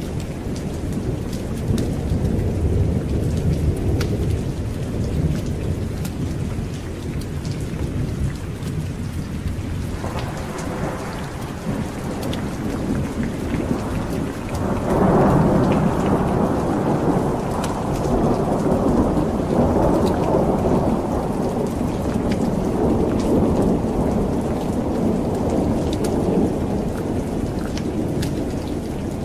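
Steady heavy rain with a continuous thunder rumble; a bigger roll of thunder builds about ten seconds in, swells to its loudest about five seconds later and keeps rumbling to the end.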